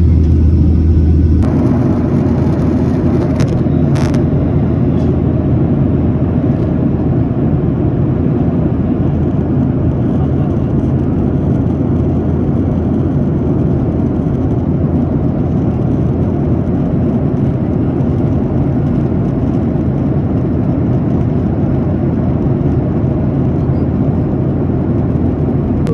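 Airliner cabin noise in flight: a steady low rumble of jet engines and rushing air heard from a passenger seat, with a deeper hum dropping away about a second and a half in.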